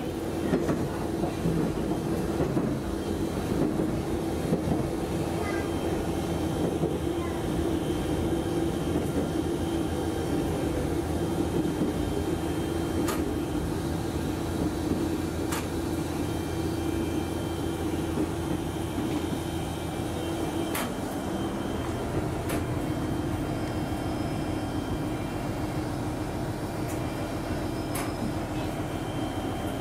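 Diesel railcar running, heard from inside the cab: a steady engine and running drone with a few sharp clicks. The low part of the drone changes about two-thirds of the way through as the train slows into the station.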